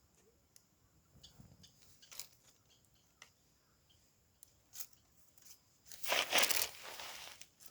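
A few light clicks and taps, then a harsh scrape lasting about a second and a half near the end, like a striker dragged down a ferrocerium fire-starter rod to throw sparks.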